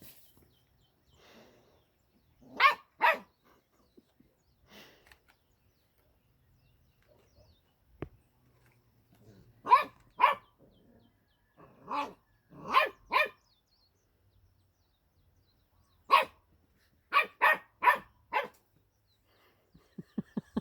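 A puppy barking during play, in short groups of two to four sharp barks, about a dozen in all.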